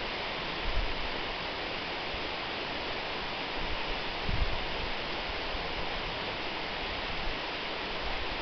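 Waterfall: a steady rush of falling water, with two brief low rumbles, about a second in and just past the middle.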